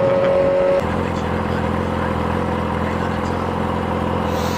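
Yamaha R6 sport bike's inline-four engine running through its loud aftermarket exhaust. It holds a high steady pitch, then drops abruptly to a lower steady pitch about a second in.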